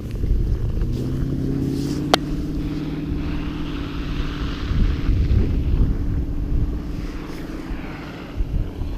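An engine drones steadily, with low wind rumble on the microphone and one sharp click about two seconds in.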